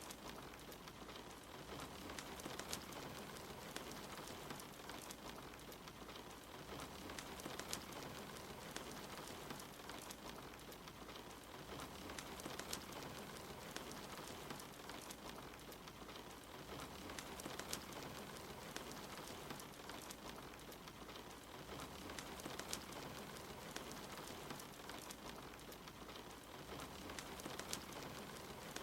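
Steady rain mixed with a wood fire crackling in a fireplace: an even hiss of rain with frequent sharp pops and snaps scattered throughout.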